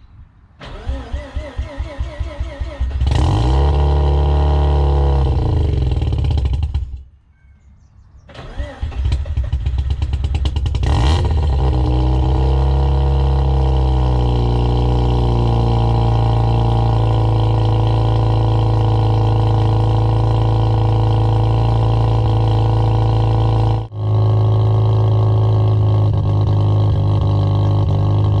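Mazda RX-7 FC's 13B turbo rotary engine cold-starting: the starter cranks for a couple of seconds, the engine catches and runs for a few seconds, then dies away. Cranked again about nine seconds in, it fires and settles into a steady idle.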